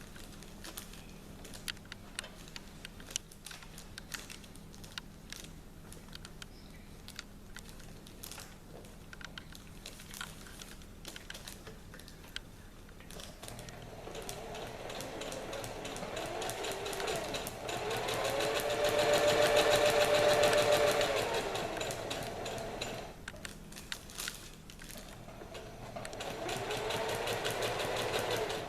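Electric sewing machine stitching in zigzag over an embroidered design: faint clicks at first, then from about halfway the motor and needle run up to speed, slow down and stop, and start again for a shorter run that stops near the end.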